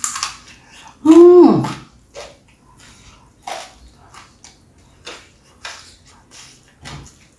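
Close-miked mouth sounds of a person eating with her hands: wet chewing and lip smacks making short sharp clicks about every half second. About a second in comes the loudest sound, a brief hummed voice sound that rises then falls in pitch.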